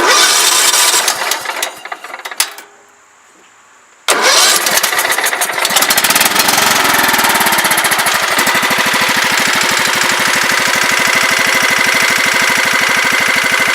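Tractor engine starting and running now that its corroded key-switch terminals have been cleaned and the fuel solenoid gets power. A loud burst of engine noise dies away about two seconds in. About four seconds in the engine comes in abruptly, revs briefly, then settles into a steady idle with even firing pulses.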